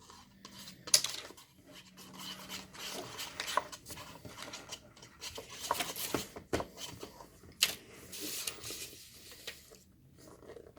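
Slime-making utensils and containers being handled on a table: irregular rubbing, scraping and light clinking, with a few sharper knocks, the loudest about a second in.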